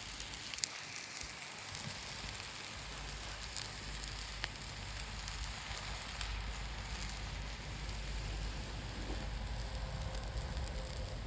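Campfire burning: a steady hiss with a few sharp crackles.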